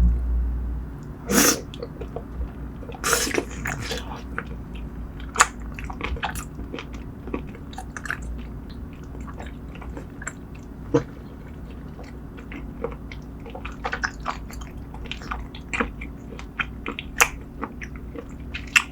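Close-miked eating of spicy braised seafood: chewing and biting, with many small wet clicks and crackles and a few louder crunches, two of them in the first few seconds, over a steady low hum.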